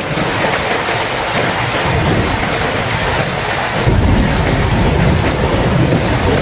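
Steady heavy rain with low rolling thunder that comes in about two seconds in and grows louder about four seconds in.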